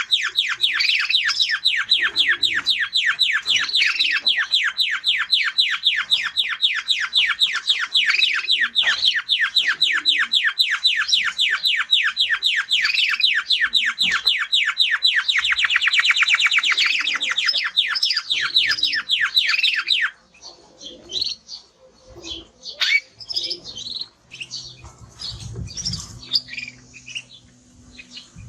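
Male Spanish timbrado canary singing one long, fast trill of rapidly repeated notes, which tightens into a smoother rolling trill in the middle. The trill breaks off suddenly about two-thirds of the way through, leaving scattered short chirps and a faint low hum near the end.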